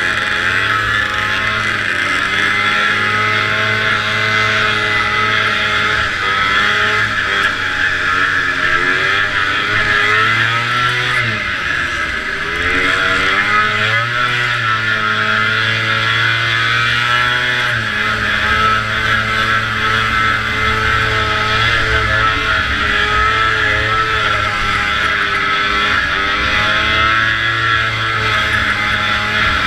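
Vintage snowmobile's two-stroke engine running hard at high revs, its pitch dropping about a third of the way through as the throttle eases off and then climbing back as it accelerates again, over a steady rush of wind and track noise.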